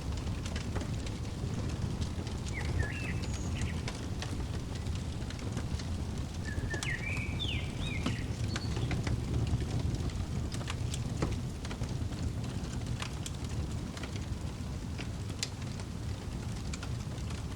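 Crackling wood fire: a steady low rumble with scattered sharp pops throughout. Short bird chirps come in around three seconds and again around seven seconds in.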